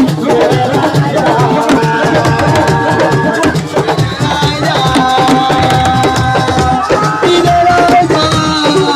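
Assiko band music: a busy, driving hand-drum rhythm under a held melodic line that steps between notes.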